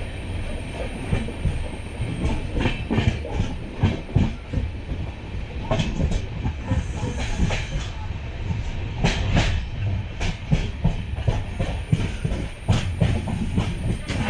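A train rolling along the track, a steady low rumble with the wheels clattering irregularly over rail joints.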